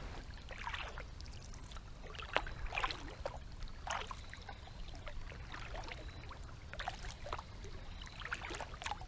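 Kayak paddle blades dipping and splashing in creek water, a stroke every second or so, over a low steady rumble.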